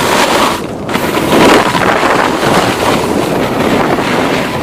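Loud, gusty wind rushing over the microphone, surging and easing without any pitched tone.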